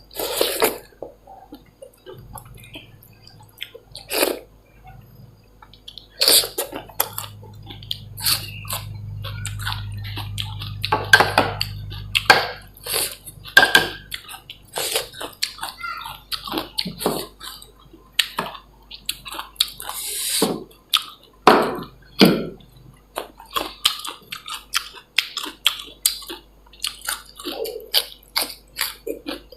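Close-up eating sounds of a person eating dal bhat and chicken: wet chewing and lip smacks in many short clicks. For several seconds in the first half, a low steady hum is also heard.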